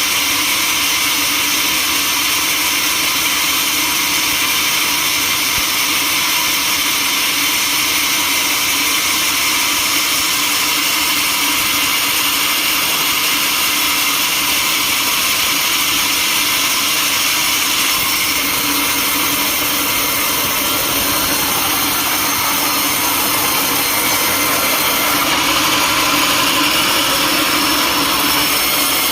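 Sawmill machinery running steadily: a loud, continuous, high-pitched mechanical whine that holds without a break.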